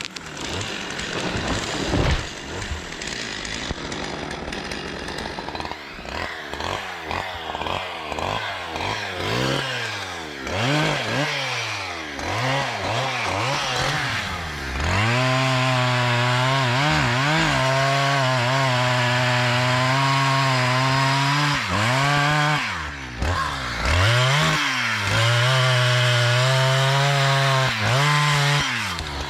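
Two-stroke chainsaw revving in quick rises and falls, then held at full throttle from about halfway through in two long steady stretches, with a short drop in revs between them, as when sawing through wood.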